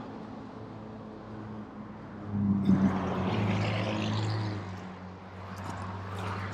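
A vehicle engine running steadily with a low hum, swelling louder for a couple of seconds about two seconds in.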